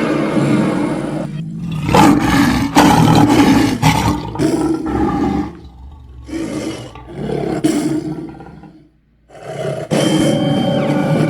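Kaiju/dragon monster roar sound effects: several loud, rough roars one after another, with a brief silence about nine seconds in before another sound with steady pitched tones comes in near the end.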